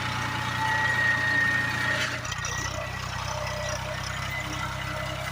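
Tractor engine running steadily, with a thin high whine over it that stops about two seconds in, where the engine note shifts.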